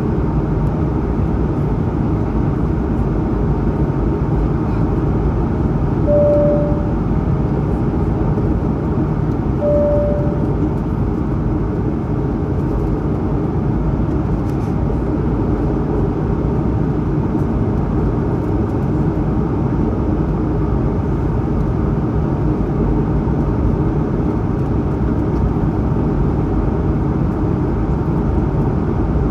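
Steady cabin noise of an Airbus A220-100 in the climb: a continuous low rush from its Pratt & Whitney PW1500G geared turbofans and the airflow over the fuselage. Two brief single-note cabin chimes sound about six and ten seconds in.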